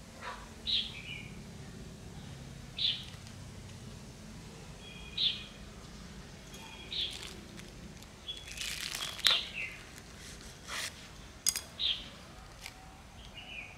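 A small bird chirping, short high calls repeating about every two seconds. There is a brief rustle and a few sharp clicks near the middle.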